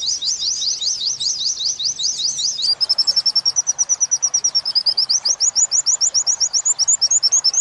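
White-eye (pleci) song from a mastering recording of the 'wit-wit' and 'kuntilanak' song types: a rapid run of high sweeping whistled notes, then a fast even trill of short notes that breaks into quicker paired chirps near the end.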